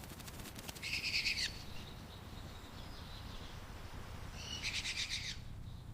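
Two short, harsh, rapidly pulsed animal calls, each under a second long and about three and a half seconds apart, each ending in a brief downward slide.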